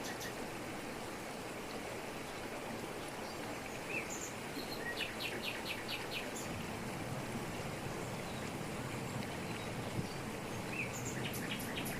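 Waterfall's steady rush of water falling over rocks, with a bird breaking in with a short run of rapid high notes about halfway through and again near the end.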